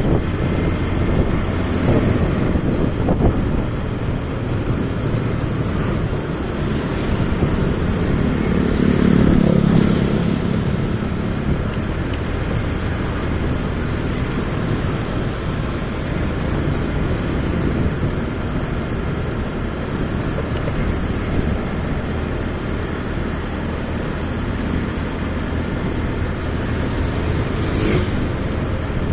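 Motorcycle engine running steadily while riding through city traffic, with road and traffic noise around it. The sound swells louder for a couple of seconds around nine seconds in, and there is a brief sharp sound near the end.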